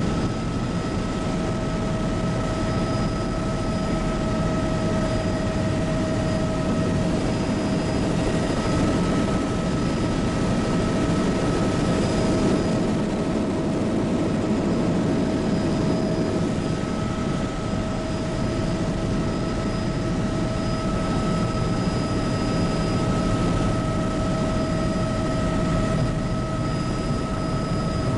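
Bell 206B JetRanger helicopter in steady flight: a constant drone of rotor and turbine, with a steady high whine over it.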